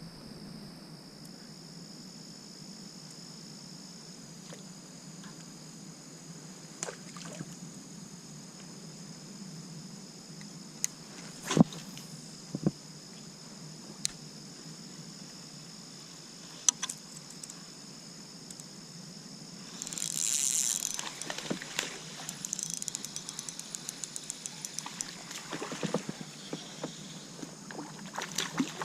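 Outdoor river ambience from a fishing kayak, with a steady faint high-pitched hum and a few sharp knocks partway through. About two-thirds of the way in there is a short splash-like burst, followed by a run of rapid light ticking to the end.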